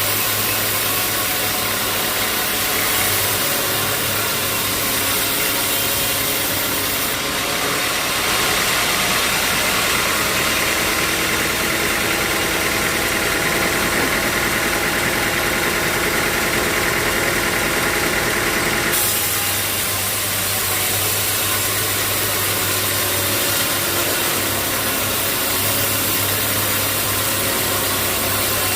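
Sawmill machinery running steadily with a constant engine-like hum. From about a quarter of the way in to about two-thirds through, a brighter, harsher sound is added on top, then drops away.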